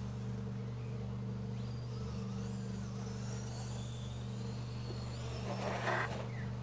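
High, thin whine of electric radio-controlled cars' motors, gliding up and down in pitch, over a steady low hum. A brief louder rush comes about six seconds in.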